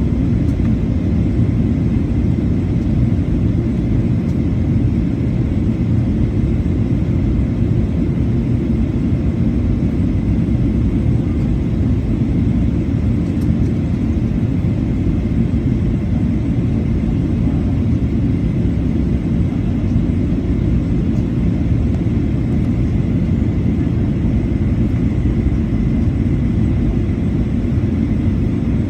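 Steady low rumble of a Boeing 737-800's jet engines, holding level with no rise or fall, with a faint steady hum on top.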